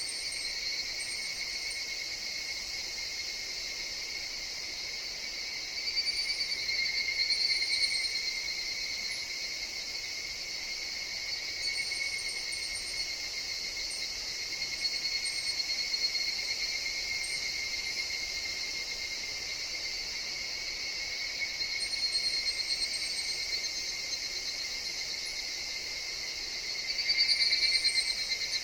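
Chorus of higurashi evening cicadas: a steady high insect drone, with single calls swelling up and fading away every few seconds, the loudest near the end.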